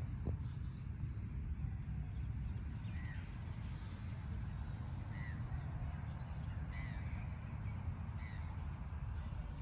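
A bird giving short calls four or five times, a second or two apart, over a steady low rumble.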